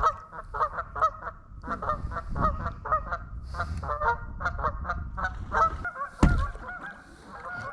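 A flock of geese honking, many short calls in quick succession, with one sharp knock about six seconds in.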